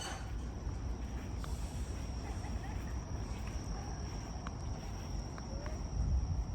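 Insects singing: a steady, high-pitched drone over a low rumble, with a few faint ticks.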